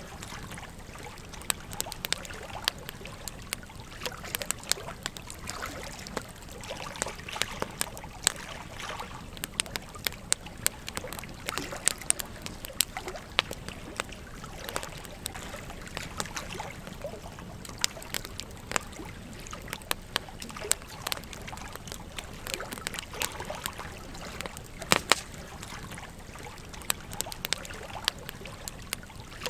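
Wood campfire crackling with irregular sharp pops, a louder pop near the end, over the steady trickle of a gentle stream.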